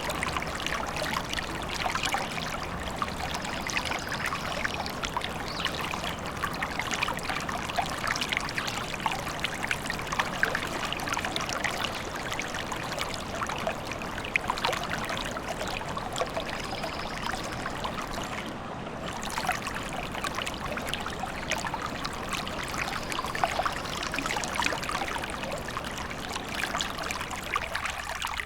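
A small forest stream babbling and trickling steadily over stones, with a few faint, high bird chirps now and then.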